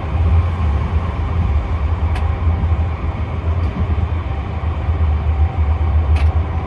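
Tram running along the track, heard from on board: a steady low rumble with a faint whine, and two brief sharp clicks.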